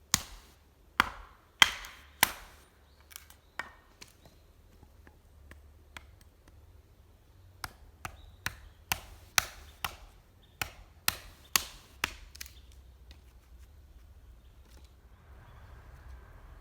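Wood being chopped with a blade: a few hard chops at the start, some lighter scattered knocks, then a steady run of about a dozen chops, roughly two a second, that stops a few seconds before the end.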